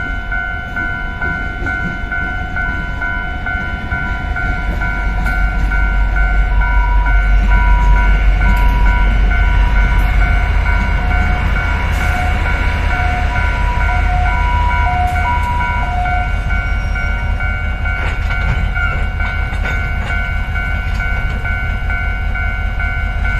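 TRA R152 diesel-electric locomotive rumbling past a level crossing while the crossing's warning signal sounds steady repeating tones; the engine rumble swells as the locomotive draws level. Near the end, freight wagon wheels click over the rails as the covered wagons roll by.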